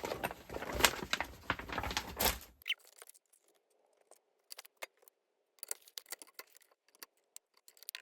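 Foil cardstock sheets being handled: dense rustling and crackly taps for the first two and a half seconds, then only a few scattered light clicks.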